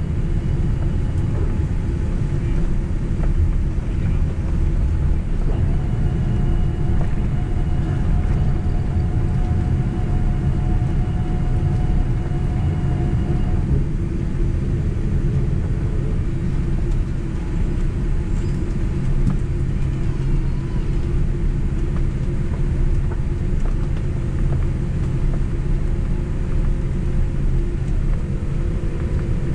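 Boeing 767 cabin noise while taxiing after landing: a steady low engine and airframe rumble heard from inside the cabin. A faint steady whine comes in for several seconds about five seconds in.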